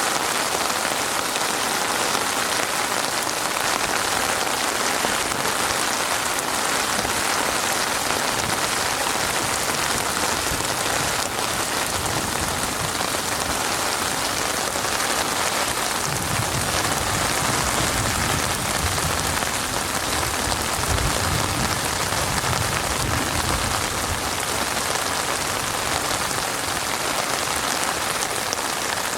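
Heavy rain falling steadily on a surface, a dense, even hiss of drops, with a low rumble rising underneath for several seconds around the middle.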